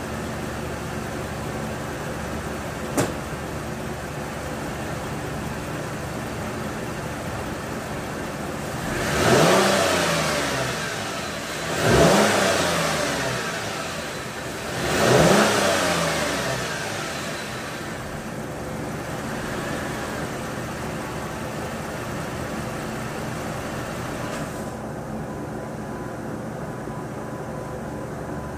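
Dodge Charger engine idling, then revved three times about nine, twelve and fifteen seconds in. Each rev rises quickly and falls back to idle.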